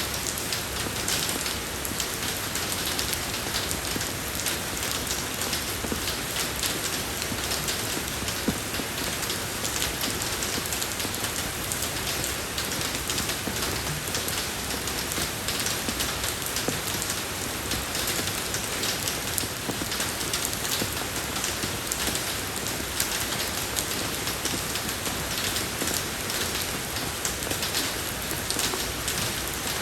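Steady rain falling on a road surface, a dense even patter of many small drops with no let-up.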